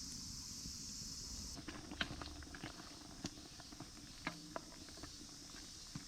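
A steady high insect drone that cuts off abruptly about a second and a half in, followed by irregular sharp clicks and light knocks.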